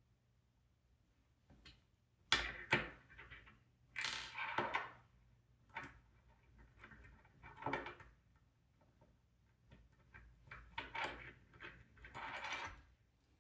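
Small hardware being handled by hand: irregular clicks, taps and short rattles of screws, nuts and robot-kit parts, in clusters with short pauses between.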